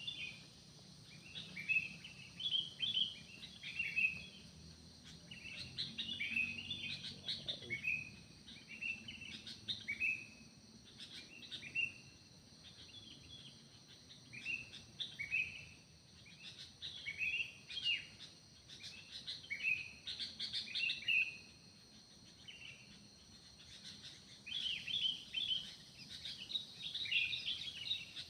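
Several wild forest birds chirping and singing, a busy string of short, mostly falling notes repeated throughout. Steady high insect buzzing runs underneath.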